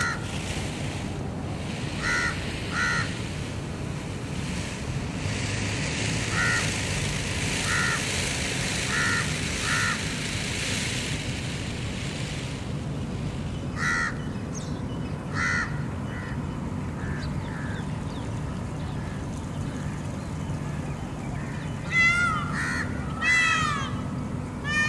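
Birds calling: short, clipped calls, single or in pairs, every second or few, then a quick run of louder, falling calls near the end. A steady low background noise runs beneath.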